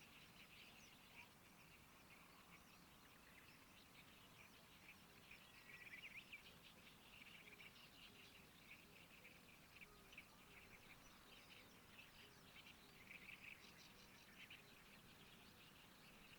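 Faint, busy chirping of birds, with quick calls following one another the whole time.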